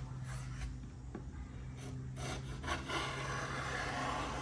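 Chisel scraping along the edge of wood edge-banding veneer, trimming off small leftover bits. The faint strokes settle into a steadier rasp after about two seconds.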